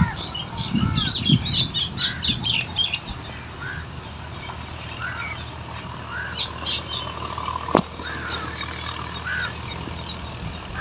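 Outdoor birdsong: short, arching chirps repeating about once a second, with bursts of higher, quicker twittering in the first few seconds and again around six to seven seconds. A single sharp click near eight seconds.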